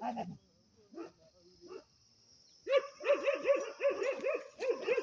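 A dog barking in a quick run of short barks that starts a little past halfway through. A steady high insect chirring runs underneath.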